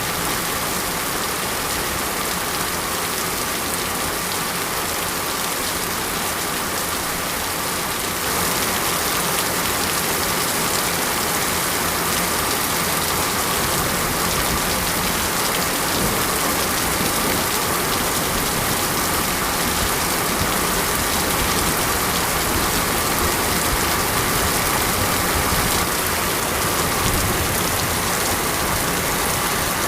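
Steady heavy rain falling, an even hiss that grows a little louder about eight seconds in.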